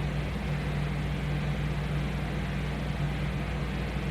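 Steady low machine hum with an even hiss over it, unchanging in level.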